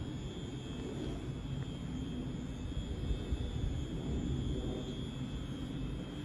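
Class 350 Desiro electric multiple unit standing at the platform: a steady low rumble and hum with a faint, constant high whine.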